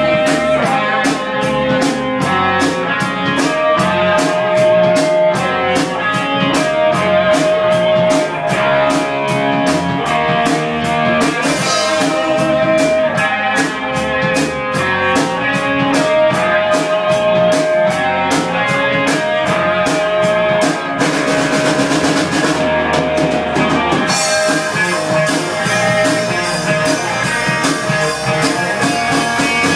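Live rock band playing an instrumental passage: electric guitar lead lines over bass and a drum kit, with a steady cymbal beat that drops out for a few seconds about three-quarters of the way through.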